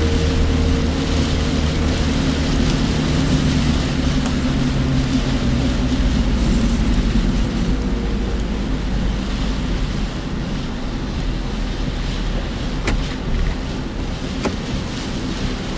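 Car driving in heavy rain and wind, heard from a dashcam: steady road and rain noise with a low engine hum that drops away about halfway through. Two sharp ticks come near the end.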